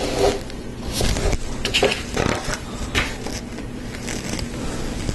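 Plastic Lego Technic parts being handled and pressed together: a string of irregular small clicks and light scraping as lift arms are fitted onto pins.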